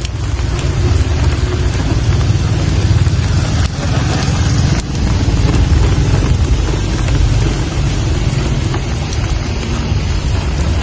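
Rain falling steadily, with scattered sharp drop ticks over an even hiss and a constant deep low rumble underneath.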